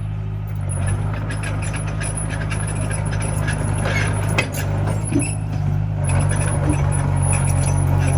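Komatsu mini bulldozer's diesel engine running steadily, with scattered metallic clinks and a sharper knock about four seconds in.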